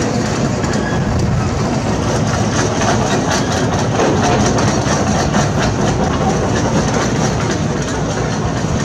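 Heavy construction machinery: a diesel excavator engine running steadily, with metal clanking and knocking from the work.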